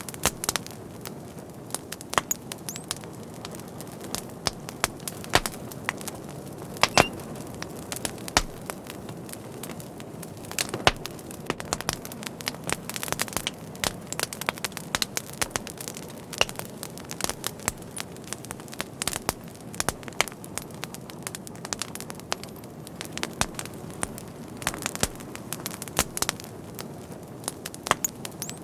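Fire crackling, with irregular sharp pops and snaps scattered over a low steady hiss.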